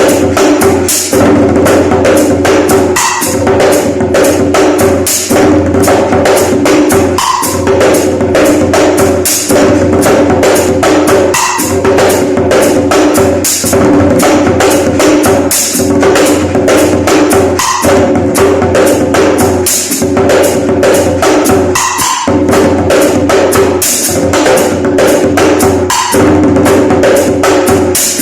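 A broken djembe played by hand in a fast, continuous rhythm, the pattern repeating about every two seconds.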